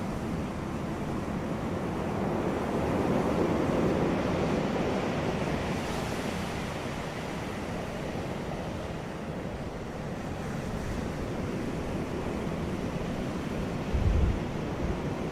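Sea waves washing onto a beach: a steady surf hiss that swells to a peak a few seconds in, then eases back. A brief low thump comes near the end.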